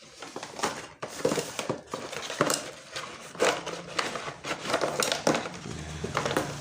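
Packaging crinkling and rustling as tool accessories are unwrapped and handled, with irregular small knocks and rattles.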